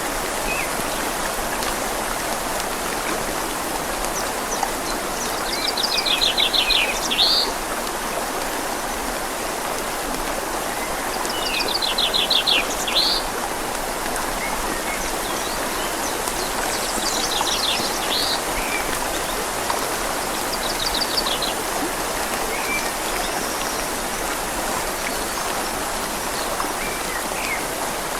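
Steady hiss of rain falling on leaves and a river flowing. A small bird's rapid trill of quick repeated notes cuts through four times, about six, twelve, seventeen and twenty-one seconds in.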